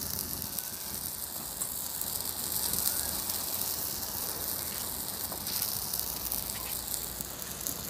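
A puda frying on an oiled tawa over a wood fire: a steady sizzle with a few faint clicks.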